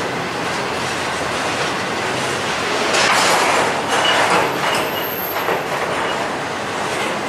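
Train rolling past on the rails with steady wheel and rail noise and some clickety-clack. It grows louder about three seconds in, with a faint high wheel squeal a little after.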